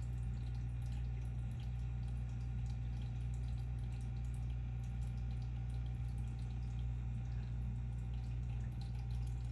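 Aquarium running, with a steady low electrical hum from its filter or pump and water trickling and dripping over it.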